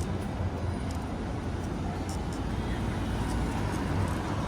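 City street ambience: a steady low traffic rumble under an even hiss, with a few faint scattered ticks.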